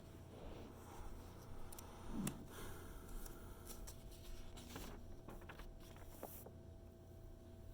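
Magazine pages being handled and turned: soft paper rustles in several short bouts, with a sharper tap a little over two seconds in.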